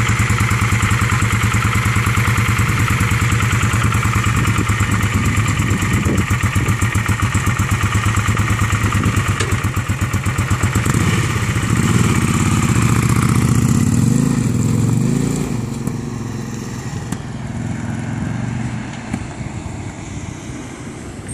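Kawasaki Vulcan 750 motorcycle's V-twin engine idling with a steady, even pulse, then revving up and down as it pulls away about twelve seconds in, its sound fading as the bike rides off into the distance.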